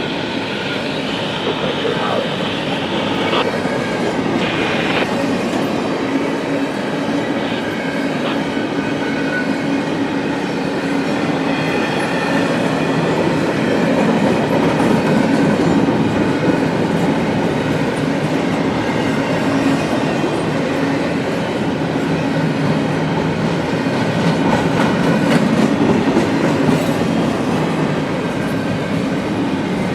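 CSX freight train's cars rolling past, a steady din of steel wheels on rail with clickety-clack over the joints.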